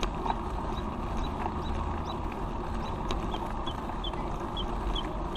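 Wind and rolling rumble of a bicycle ride, with a short high chirp repeating about two to three times a second.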